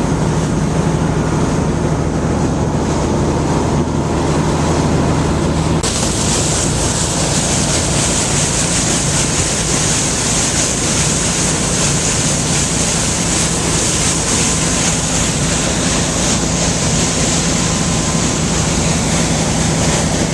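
A boat under way: its engine hums steadily beneath a loud rush of wind and water noise, with wind buffeting the microphone. About six seconds in, the hissing wind and water noise becomes suddenly louder.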